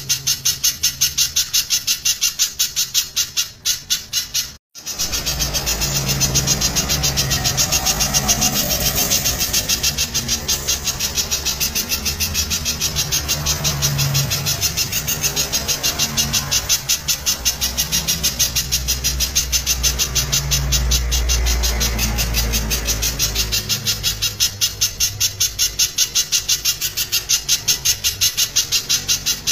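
Spiderhunter (pijantung) calling loudly in a fast, even series of sharp notes, about two a second, with a brief break about four seconds in. A low rumble runs underneath.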